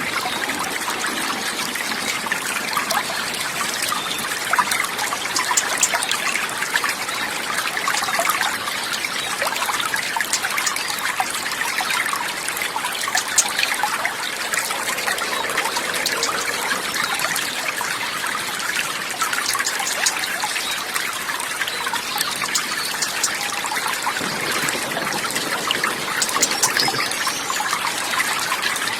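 Water trickling and babbling steadily, like a small stream, with a fine, continuous splashing texture.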